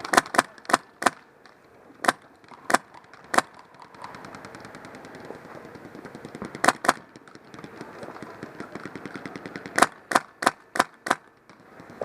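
Airsoft guns firing: loud single shots in quick runs of a few, with a fast, fainter stream of shots in the middle.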